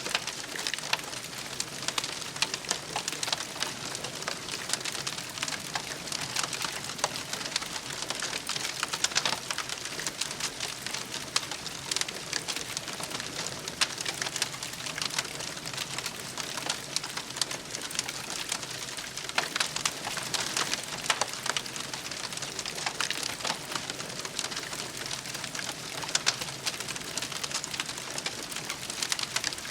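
Wood campfire crackling, a steady run of many small sharp snaps and pops over a soft hiss.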